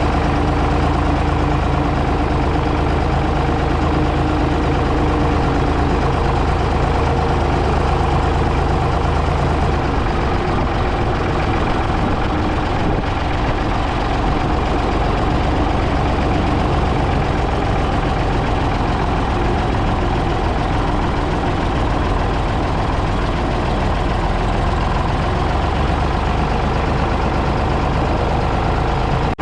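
Ford 555 backhoe loader's engine running steadily, its note changing about ten seconds in.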